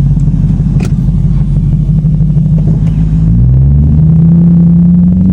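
Lexus car engine running, then rising steadily in pitch from about three seconds in as the car accelerates.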